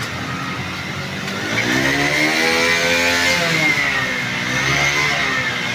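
Restored 1982-model motorcycle's freshly overhauled engine being revved: the pitch climbs about one and a half seconds in, drops back, then rises and falls again near the end.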